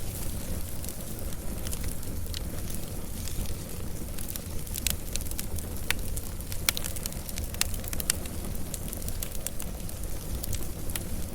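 Wood fire crackling: a steady low rumble of burning, with irregular sharp cracks and pops, a few of them louder around the middle.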